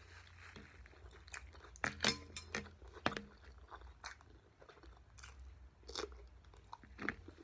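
Close-up crunching and chewing of raw cucumber, with a run of crisp crunches about two seconds in and another bite about six seconds in.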